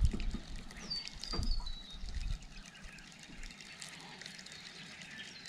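Birds calling with high whistled notes that slide down in pitch, over water lapping and trickling against a small boat's hull. There are a few low knocks in the first couple of seconds, then it settles quieter.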